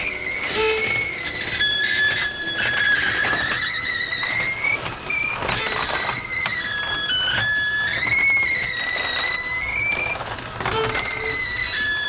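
Electric roller shutter running with a continuous high squeal that wavers and shifts in pitch, over light clicking of the slats. This is the abnormal noise from the slats rubbing, which the mohair weatherstrip replacement is meant to cure.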